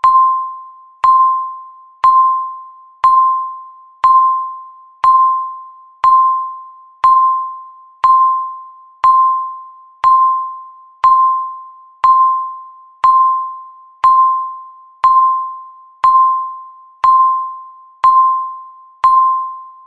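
Countdown timer tick sound: one short, bright, bell-like ding per second, each dying away before the next, about twenty in a row.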